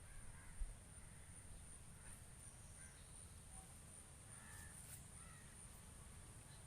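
Quiet outdoor ambience with crows cawing faintly in the distance, a few short calls, over a steady high-pitched pulsing insect-like tone. There is one soft thump about half a second in.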